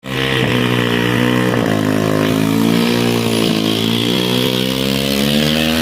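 Motorcycle engine running steadily, its pitch dipping briefly a few times.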